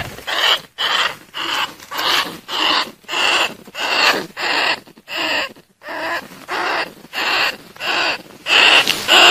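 Bandicoot rat calls played as a trapping lure: a steady run of short calls, about two a second.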